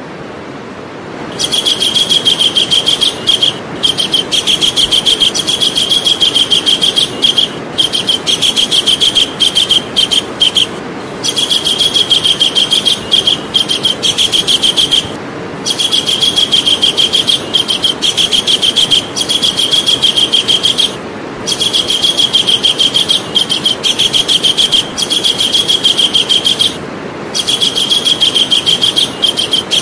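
Javan kingfisher calling: long runs of very fast, high rattling notes, repeated over and over with short breaks between them, over a steady hiss.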